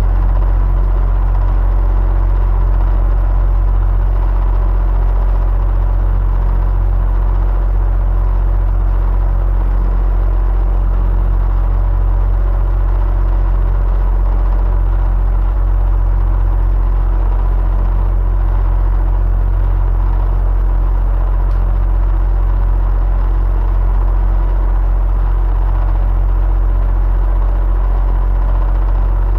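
Electric fan running steadily at constant speed: a deep, even hum with a few faint steady motor tones above it.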